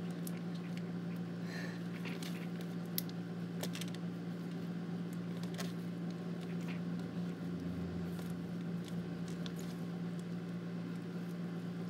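Confetti slime with plastic beads being handled, with soft squishing and scattered small clicks over a steady low hum.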